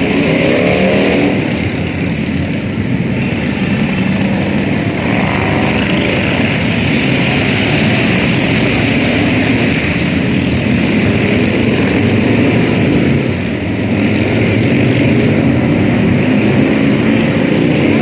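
A large group of motorcycles riding past, many engines running together at a steady loud level, with an engine revving up near the start and again near the end.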